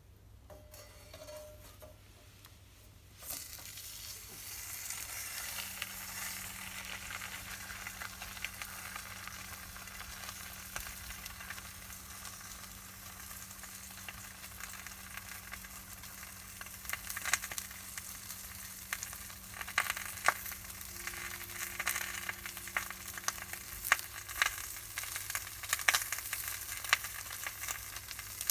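Pork sizzling in hot fat over a campfire, starting suddenly about three seconds in as a steady hiss, with sharp pops and spits becoming more frequent in the second half.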